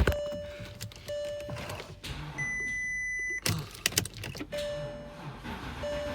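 Porsche Cayenne 4.5-litre V8 running with a loud ticking, the sign of the bad engine that is due to be replaced. A steady tone comes and goes, and a short high beep sounds about halfway through.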